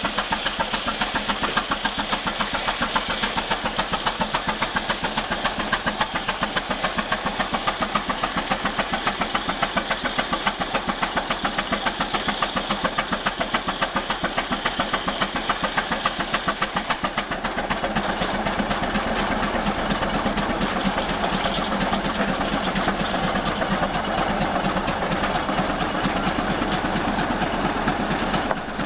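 1912-era J.I. Case 20-40 opposed twin-cylinder gas tractor engine running with a steady, even exhaust beat. About two-thirds of the way through the sound becomes fuller and slightly louder.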